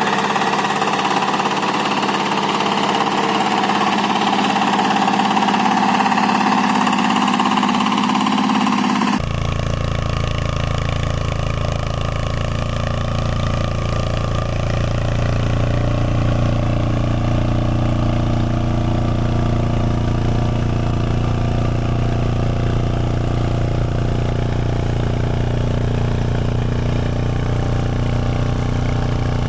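Walk-behind tractor engines running: a rough, bright-sounding engine that changes abruptly about nine seconds in to a steadier, lower-pitched engine hum.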